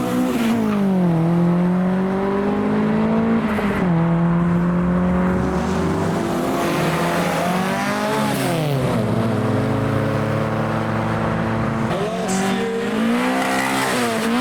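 Car engines revving as they drive off, the pitch dropping at gear changes and climbing again several times.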